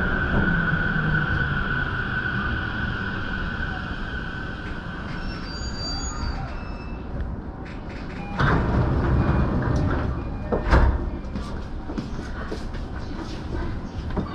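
Electric commuter train of the JR Chuo-Sobu Line slowing to a stop: a high steady whine and a lower motor tone falling in pitch fade out over the first few seconds. About eight seconds in there is a sudden burst of rushing air with a sharp knock a couple of seconds later, the train's sliding doors opening at the station.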